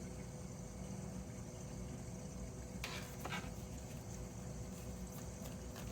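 Quiet room tone with a steady low hum, and two faint clicks a little under three seconds in.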